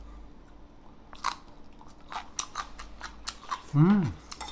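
Close crisp crunching and chewing of freshly made green-onion kimchi (pa-kimchi) as it is bitten and chewed, a rapid string of short crunches. About four seconds in, a short hummed "mm" of approval.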